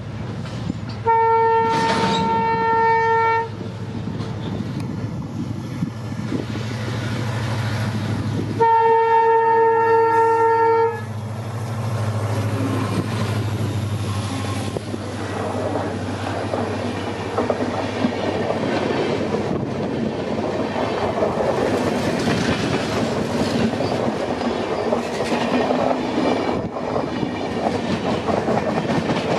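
WDP4D diesel-electric locomotive sounding two horn blasts, each about two seconds long and several seconds apart, as it approaches with its engine running. It passes close by, and its passenger coaches follow with wheels clattering over the rail joints.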